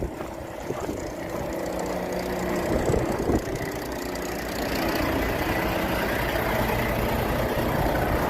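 Truck engine running, getting louder over the first few seconds and then holding steady.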